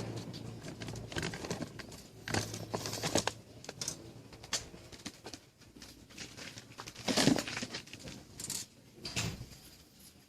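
Irregular clicks, taps and light scrapes of small objects being handled, with one louder knock about seven seconds in. A low hum fades out over the first second or two.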